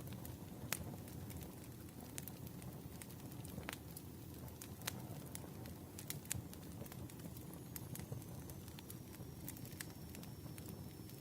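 Campfire burning: a steady low rumble of flames with irregular sharp crackles and pops from the burning wood, and a faint high whistle that slowly falls in pitch in the second half.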